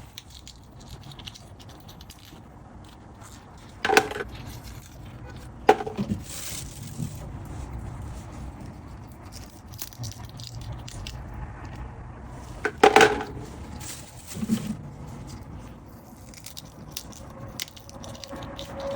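Soft handling and scraping sounds, with sharp ringing clinks about four, six and thirteen seconds in and a duller knock soon after the last.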